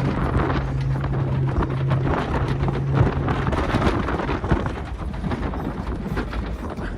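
Motor vehicle engine running with heavy wind buffeting on the microphone. A steady low engine hum fades out about halfway through.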